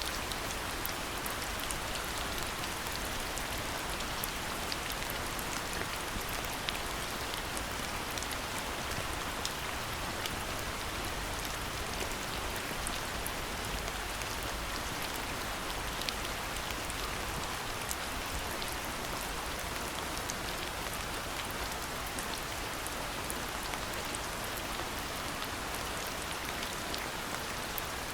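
Steady rain falling, with many small, separate drop hits ticking through the even hiss.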